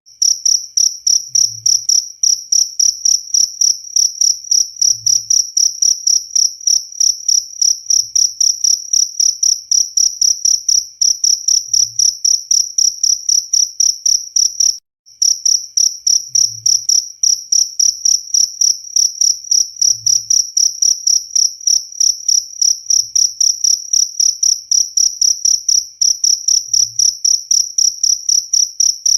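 Field cricket chirping steadily, a high-pitched chirp repeated several times a second. It drops out for a moment about halfway through, then carries on.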